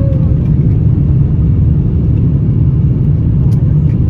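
Airbus A350 cabin noise: a steady, loud low rumble of the Rolls-Royce Trent XWB jet engines and the airflow, heard from inside the passenger cabin.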